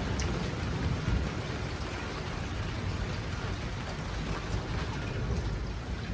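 Heavy rain falling steadily in a thunderstorm, with a low rumble of thunder fading in the background and rising again near the end.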